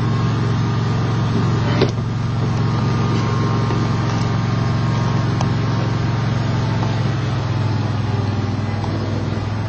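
Steady low engine hum, like a vehicle idling, with a single brief click about two seconds in.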